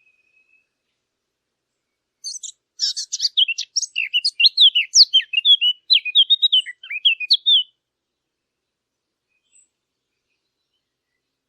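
A songbird singing one phrase of quick, varied chirps and trills, about five seconds long, starting about two seconds in.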